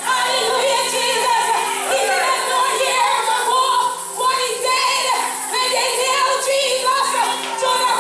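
Gospel singing with instrumental accompaniment, a woman's voice carrying a melody over a steady held chord.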